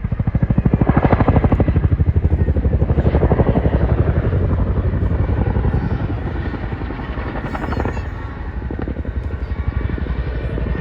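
Helicopter flying overhead, its rotor blades beating in a fast, steady chop; loudest in the first few seconds, then slowly fading.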